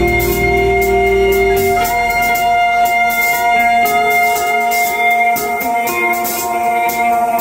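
Rock band playing live: held chords ringing over a steady cymbal beat. The deep bass drops away about two seconds in, leaving the higher chords.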